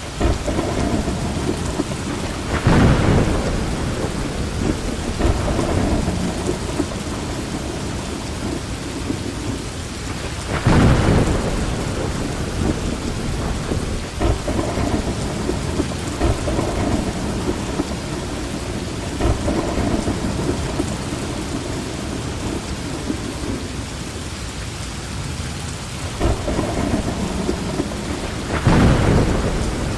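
Heavy rain pouring steadily, with thunder rolling over it; the thunder swells loudest three times: about three seconds in, about eleven seconds in, and near the end.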